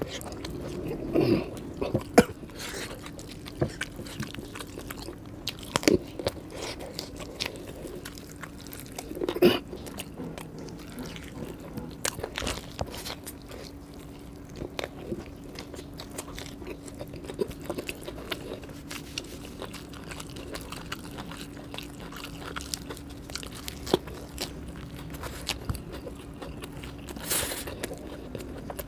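Close-up eating sounds: chewing and irregular loud crunching bites of fried chicken lollipop, over a faint steady hum.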